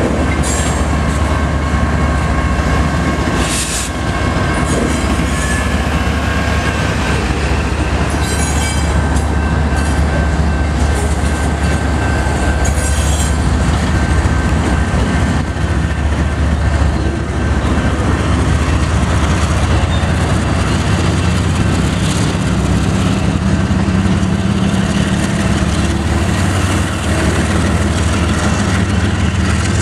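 CSX diesel freight locomotives and their train rolling past with a steady low engine rumble and the clatter of wheels over rail joints. A high, steady wheel squeal rings over the first several seconds.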